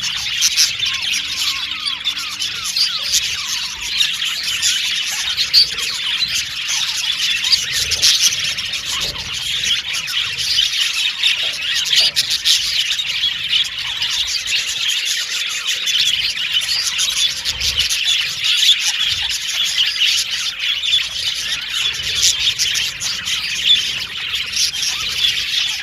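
A flock of budgerigars chirping and chattering together, a dense unbroken mix of many overlapping high chirps, trills and squawks.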